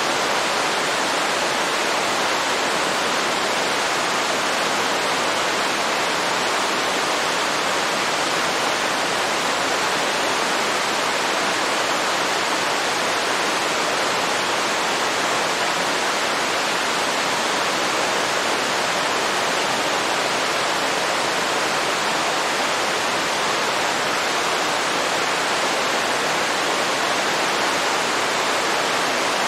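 Waterfall rushing: a steady, even hiss of falling water with no change.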